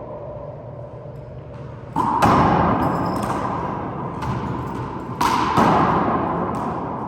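Handball smacked by hand and striking the court walls in a four-wall handball rally: sharp smacks with a long echoing ring from the enclosed court. The two loudest come about two seconds in and about five seconds in, with lighter knocks between.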